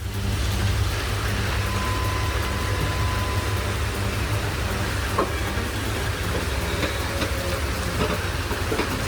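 Heavy vehicle running: a steady low engine rumble under constant road and wind noise, with a brief thin whistle early on and a couple of sharp clicks later.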